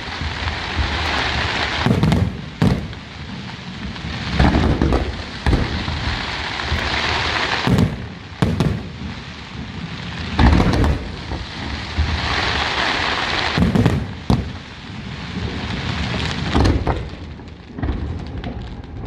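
Aerial fireworks bursting in an irregular series of deep booms, about ten in all, with a dense crackling hiss from the bursting effects filling the gaps between them.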